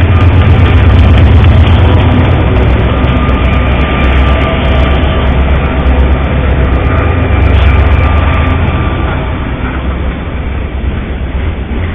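A diesel-hauled train passing close by: a loud, steady rumble of engine and rolling wheels, with a few faint steady tones over it, easing off a little near the end.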